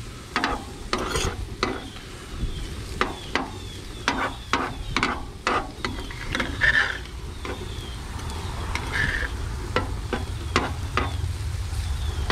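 Spatula stirring and scraping ground chicken frying in a hot pan. There is a short sharp scrape or tap about twice a second over the sizzle, with a steady low rumble underneath.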